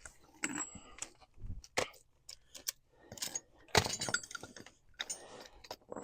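Scattered metal clinks and knocks, several with a brief metallic ring and a louder knock about four seconds in: loose lug nuts and hand tools being handled as the pickup's front wheel is taken off.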